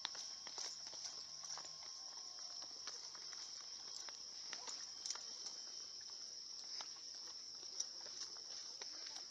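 A steady high-pitched drone of insects in forest, with irregular footsteps and light taps on a trail.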